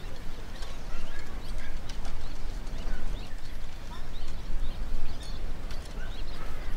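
Many birds chirping and calling, short rising and falling calls scattered throughout, over a steady low rumble.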